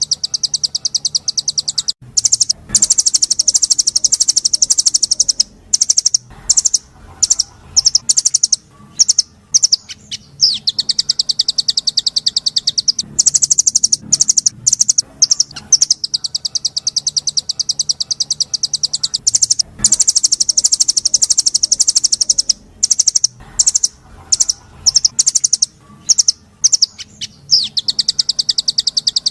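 A small songbird's high, very fast rolling trills, each run lasting several seconds, broken by shorter bursts and brief pauses. The same sequence comes round again about every 17 seconds, as in a looped masteran recording used to train songbirds.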